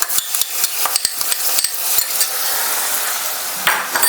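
Onion, capsicum and ginger-garlic masala with freshly added tomato paste sizzling in hot oil in a kadai while a spatula stirs it. The spatula clicks and scrapes against the pan several times in the first two seconds, and there is a brief louder scrape near the end.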